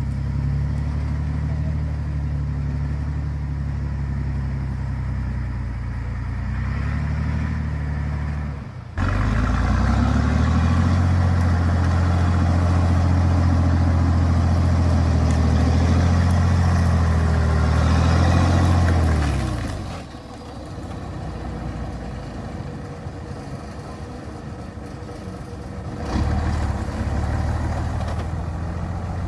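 A truck engine labouring at steady revs; about nine seconds in it suddenly gets louder and runs hard for about ten seconds, then drops back, rising again near the end.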